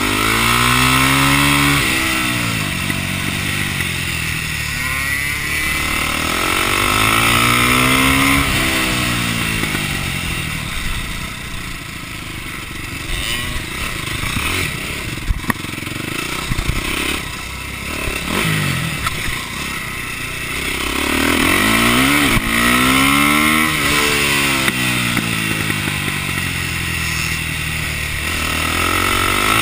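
KTM supermoto motorcycle engine revving hard at racing pace, heard from on the bike: the pitch climbs through each gear and drops back on the downshifts. In a quieter stretch midway, over the dirt section, sharp knocks and clatter come through.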